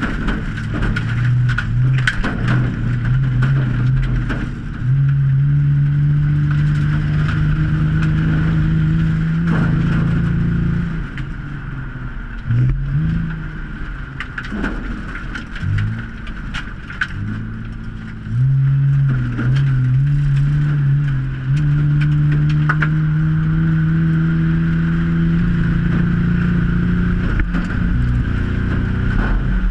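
2003 Ford Taurus race car's six-cylinder engine heard from inside the cabin. It picks up twice, each time holding high under throttle for several seconds before easing off, like a car lapping a short oval. Clicks and rattles from the car's body run through it.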